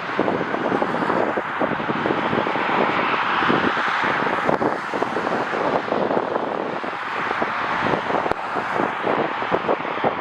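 Gusty wind buffeting the microphone in uneven thumps over the steady noise of a jet airliner's engines, which swells a little near the middle.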